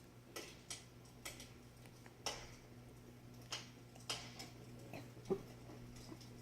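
Wood fire in a fireplace crackling, with irregular sharp pops about nine times, the loudest a little after five seconds in.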